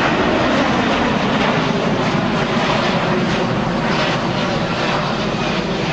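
Boeing 757 jet airliner's engines running at high power as it flies a low display turn with gear down: a loud, steady rush of jet noise with a faint tone sliding slowly in pitch.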